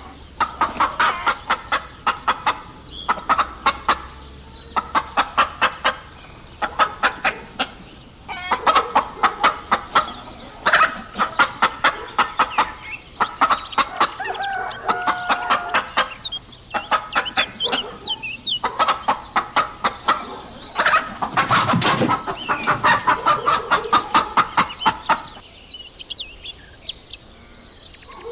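Chickens clucking in repeated bursts of rapid clucks, each lasting about a second, with a few short higher calls among them. The clucking stops near the end.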